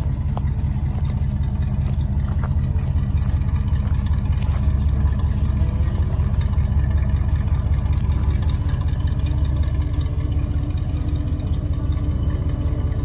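Classic car engine idling steadily with a low, even sound, slightly louder around the middle.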